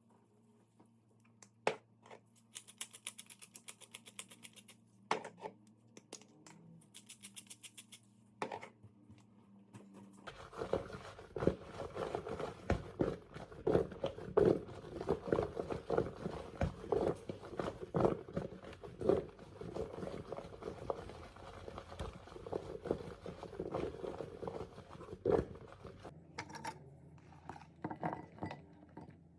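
Kitchen handling sounds from cooking: a few scattered clicks and two short runs of rapid high ticking, then about fifteen seconds of dense, irregular knocks and scraping of utensils and dishes, easing off near the end.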